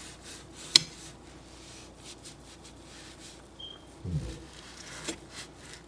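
Hand-scrubbing a stovetop with a cloth and cleaner: soft rubbing strokes, with a sharp click just under a second in and a brief high squeak midway. A short low falling sound comes about four seconds in.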